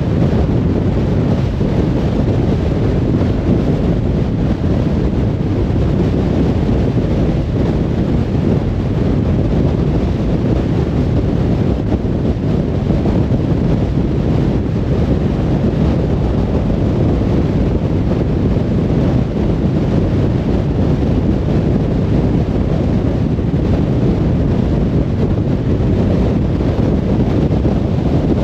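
Car driving steadily on a motorway: an even, low rumble of road and wind noise with no change in pitch or level.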